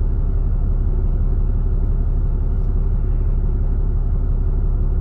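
Steady low rumble of the tow truck's engine heard from inside its cab, with a faint steady hum over it.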